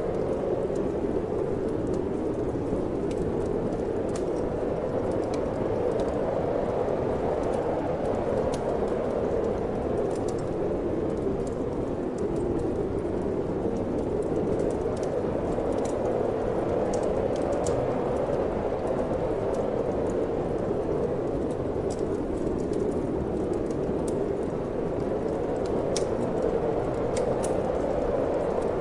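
Wind blowing steadily with slow swells, over a fireplace fire crackling with scattered sharp pops.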